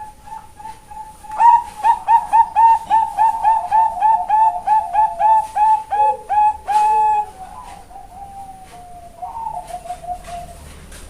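Female zebra dove (Bangkok perkutut) cooing: a few soft notes, then a loud rapid run of short clipped coos, about three or four a second, ending on a longer held note, followed by softer coos that fall slowly in pitch.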